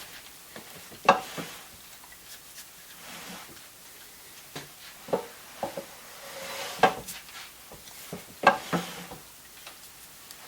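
Shop-built mechanical power hammer being turned over by hand, its loose parts giving a series of sharp metal clunks and knocks at irregular intervals, the loudest about a second in and twice near the end. The play comes from bearing caps that lost their shims and are only loosely bolted in place.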